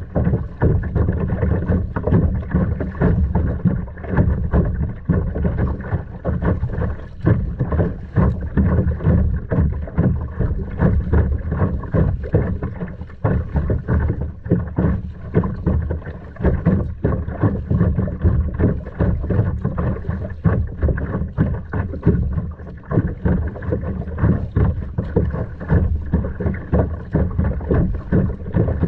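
Wind rumbling and buffeting on the microphone of a camera on a kayak, with water splashing and lapping at the hull in uneven bursts.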